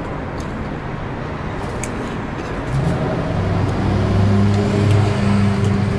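Street traffic, with a motor vehicle's engine coming in about three seconds in, rising in pitch and then holding a steady hum as it grows louder.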